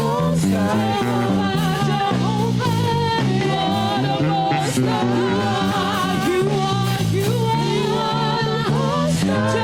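Gospel worship music: a singer's wavering, vibrato-laden voice over steady held chords from the accompanying instruments.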